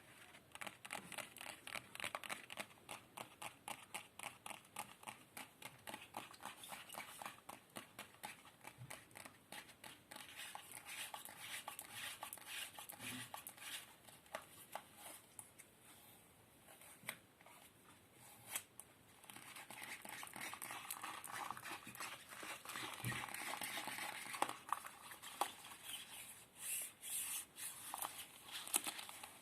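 Close-miked ASMR trigger sounds: a fast run of small sharp clicks, several a second, giving way about two-thirds in to a denser crinkling, scratching texture.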